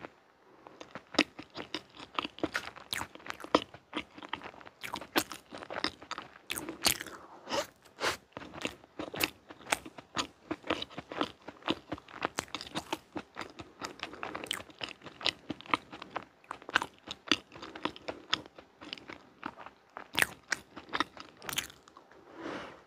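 Close-miked chewing of soft chocolate cake and cream, with many quick, sticky mouth clicks and smacks, and a fresh bite near the end.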